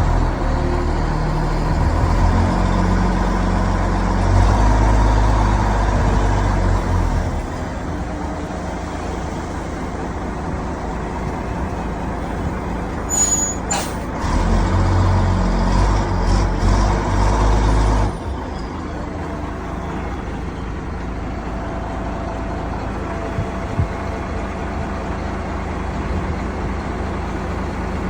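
M923 military truck's diesel engine running, with the revs raised twice: once for the first several seconds and again for a few seconds just past the middle. It then drops back to a lower, steady idle.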